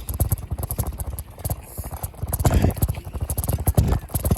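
Bicycle riding over rough ground: rapid, irregular knocks and rattles with low rumble buffeting the recording phone's microphone.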